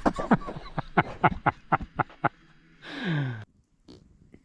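Group laughter in quick bursts, followed about three seconds in by a long fart whose pitch drops steeply before it cuts off suddenly.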